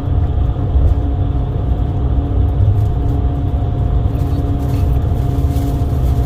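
Moving road vehicle's steady engine and road rumble, with a faint steady whine held over it.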